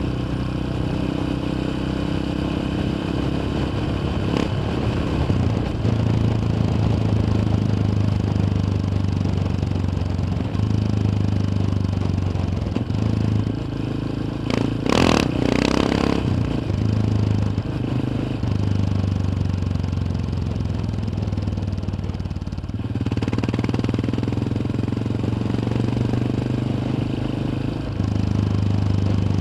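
Yamaha XT 600's single-cylinder four-stroke engine running steadily on the move, heard from onboard, its note stepping up and down several times with throttle and gear changes. A brief loud rushing swell comes about halfway through.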